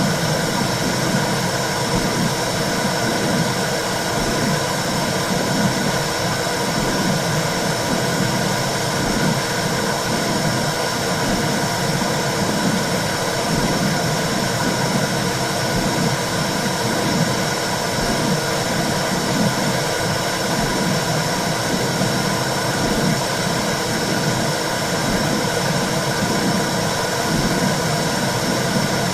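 Womb sound for soothing a baby: a steady rushing whoosh with a low pulse that swells and fades over and over, unbroken throughout.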